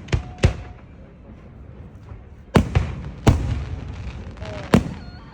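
Fireworks exploding: five sharp bangs, two close together at the start and three more spread over the rest, each trailing off in a low rumble.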